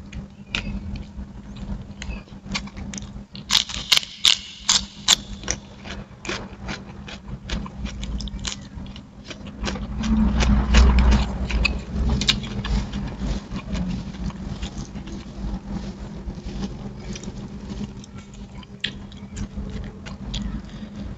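Close-up eating sounds of a person chewing rice and fried chicken eaten by hand: wet mouth clicks and smacks, with a burst of sharper, louder clicks about four seconds in. A low hum runs underneath, and a louder low rumble swells around the middle.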